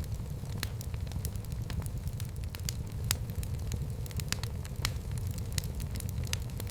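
Fire burning in a fireplace, with irregular sharp crackles and pops over a steady low rumble.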